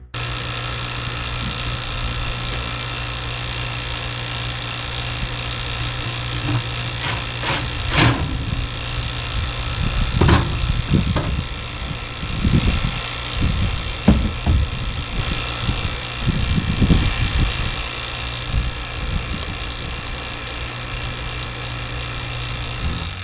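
A motor running steadily with a constant low hum, with a series of irregular knocks and clunks through the middle.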